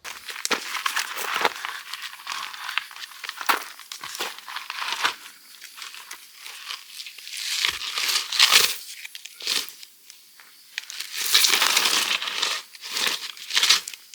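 Crinkling and rustling of something being handled, in irregular bursts, with a brief lull about ten seconds in.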